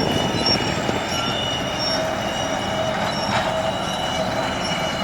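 Rice combine harvester running steadily while it harvests, a constant machine rumble with high, steady whining tones over it.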